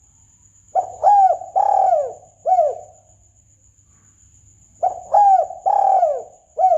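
Spotted dove (tekukur) cooing: two phrases of four coos each, about four seconds apart, each coo a short falling note. It is the dove's lure call used to draw birds in for hunting.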